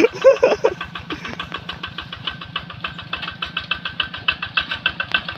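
Yanmar Bromo Pro hand tractor's single-cylinder diesel engine running steadily with an even, rapid beat of about nine pulses a second.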